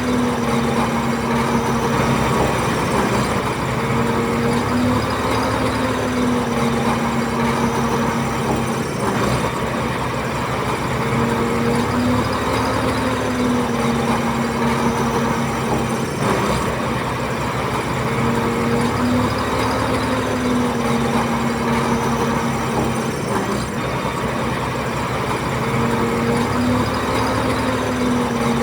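Heavy diesel engine of earthmoving machinery running steadily, its pitch dipping and recovering slightly every few seconds.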